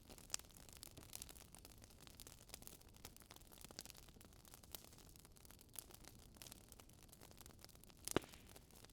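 Wood fire crackling in a fireplace: faint, irregular pops and snaps over a low hiss, with a sharper pop about eight seconds in.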